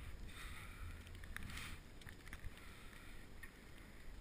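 Cycling through wet snow heard from a helmet-mounted action camera: a steady low wind rumble on the microphone, with soft hiss rising and falling every couple of seconds and a few faint clicks.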